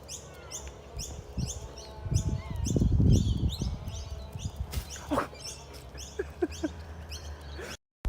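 A small animal's or bird's high, quick chirps repeated over and over, with a few short rising calls about five to seven seconds in. Low thumps and rumble about two to three seconds in are the loudest part.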